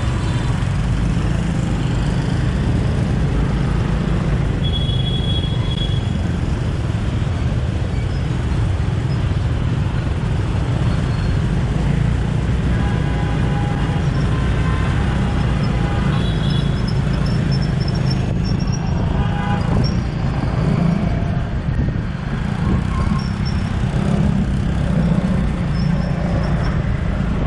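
Busy street traffic heard from the back of a moving motorbike: a steady low rumble of wind on the microphone and engines, with motorbike and car horns beeping in short bursts several times, most often in the second half.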